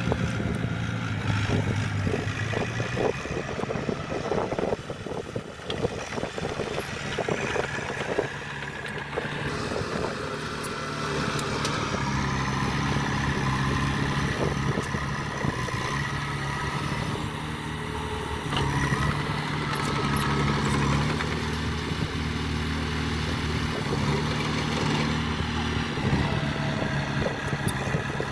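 Diesel engines of heavy earthmoving machinery running under varying load, with the pitch shifting as they work. There are repeated knocks and clanks through roughly the first ten seconds.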